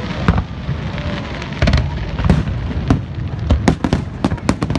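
Fireworks going off: a rapid string of sharp cracks and bangs over a continuous low rumble, thickest about a second and a half in and again in a dense run near the end.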